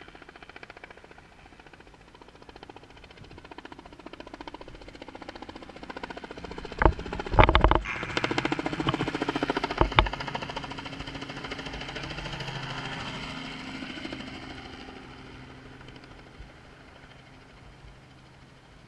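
Helicopter rotor beating in a fast steady pulse, growing louder, then fading away as it passes. A few loud thumps come in the middle, around seven and ten seconds in.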